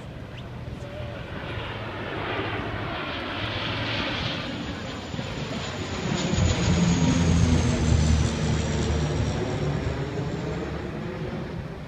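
Firefighting airplane's engines flying past: the sound grows louder to a peak about seven seconds in, then drops in pitch and fades as the plane moves away.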